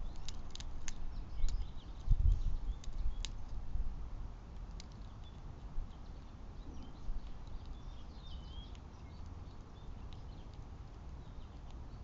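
Small animals at a backyard feeder: quick tapping and scrabbling clicks with a few low thumps close to the trail camera in the first few seconds, then quieter, with a few faint high bird chirps about eight to nine seconds in.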